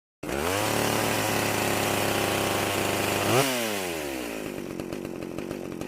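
Chainsaw engine running: it settles to a steady pitch, is revved once about three and a half seconds in, then slows with a falling pitch.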